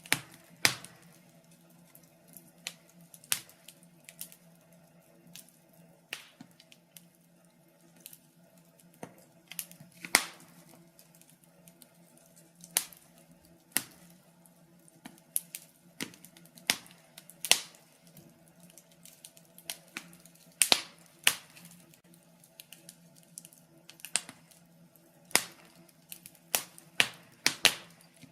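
Logs burning in a fireplace, crackling with irregular sharp pops and snaps, a few every second or two, some much louder than others, over a faint steady low hum.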